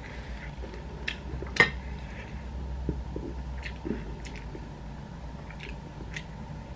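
Close-up eating sounds: chewing a mouthful of fried jengkol and rice eaten by hand, with scattered small clicks and smacks, the loudest about a second and a half in, over a low steady hum.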